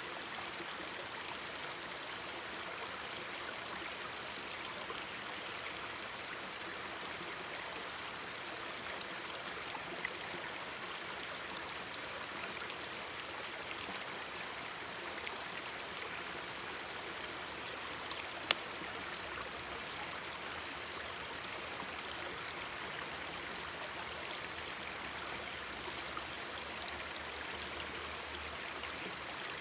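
Mountain stream babbling steadily, with a few sharp pops from a burning campfire, the loudest about two-thirds of the way through.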